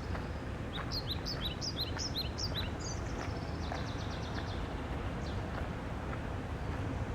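Steady rush of a river's flowing water, with a songbird singing a quick run of repeated high, down-slurred notes from about a second in, followed by a fainter trill.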